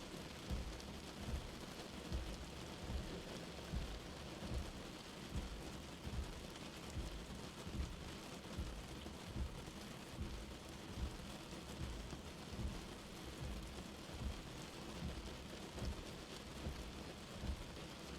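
Light rain falling steadily, with dull low thuds about once a second.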